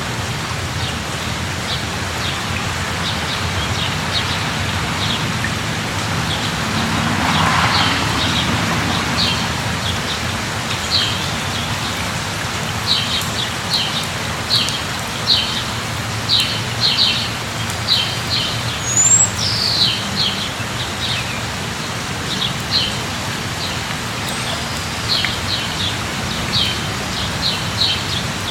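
Steady rain falling, with birds chirping over it: many short high chirps, thickest in the second half, and a couple of quick whistled glides about two-thirds of the way through. The rain noise swells briefly about a quarter of the way in.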